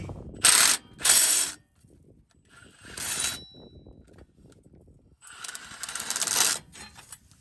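Metal tool noise in several short bursts, each a harsh scraping rattle, as the bolts of the exhaust flange are worked loose.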